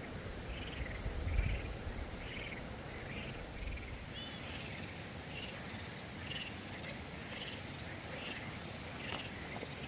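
Outdoor animal calls: short high chirps repeating about once a second, over a steady background hiss, with a low rumble in the first second or so.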